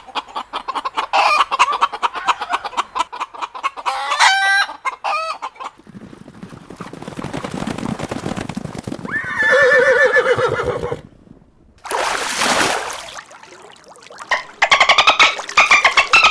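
Chickens clucking and calling in a series of rapid pulsed calls, with one long wavering call about nine seconds in and another run of clucking near the end.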